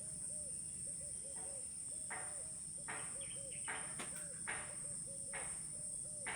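Steady high-pitched insect drone, with a soft swish repeating about once a second and quick low chirps underneath.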